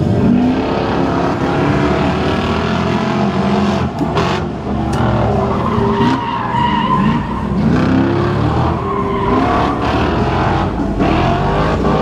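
Mercedes car engine revving hard, rising and falling in pitch several times, with tyres skidding and squealing as in a burnout.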